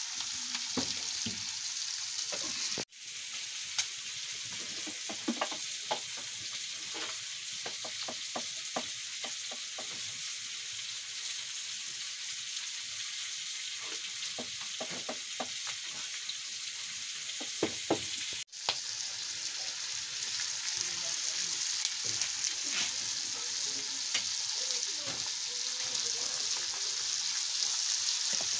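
Chicken curry frying in hot oil, sizzling steadily, while a spoon scrapes and knocks against the pan as it is stirred. The sound cuts out for an instant twice.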